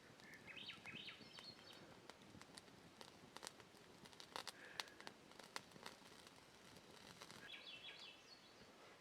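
Faint bird calls: two short runs of quick high chirps, one near the start and one near the end, with scattered small clicks and taps in between.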